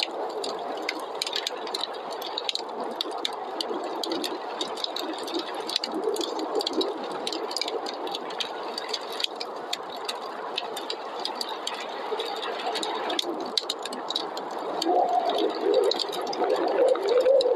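Wood fire crackling with many irregular sharp pops, over a steady rush of snowstorm wind whose wavering howl swells near the end.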